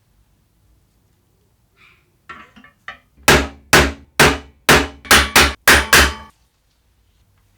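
Hammer blows, eight sharp strikes in quick succession, each leaving a short ringing tone. They are preceded by a few small knocks and handling noises.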